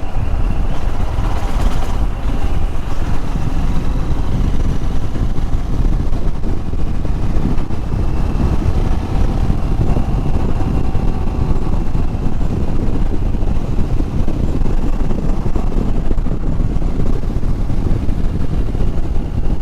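Royal Enfield Himalayan's single-cylinder engine running steadily on the move, with wind noise on the microphone.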